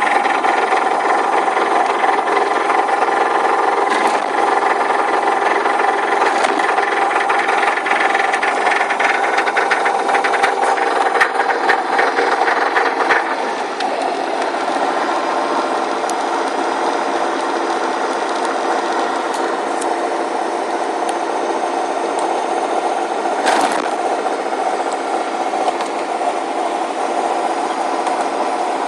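Subaru WRX's turbocharged flat-four engine running while the car is driven, with a rattling knock from a failing connecting-rod bearing (rod knock). It gets somewhat quieter about halfway through.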